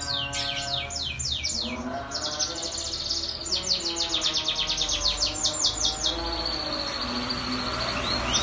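Domestic canary singing: quick rolls of repeated falling notes, with a faster run in the middle and then a held high note. Background music plays underneath.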